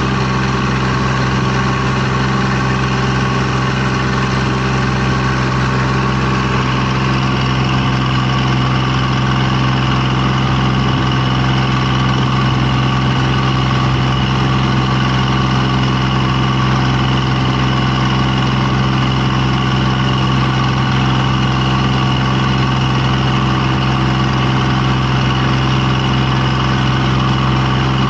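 An engine running steadily at one speed, a constant loud drone with no change in pitch.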